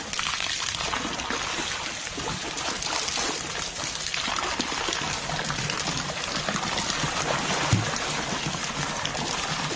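A black bear splashing and sloshing in a water-filled plastic tub, with a stream of water pouring steadily into it from above.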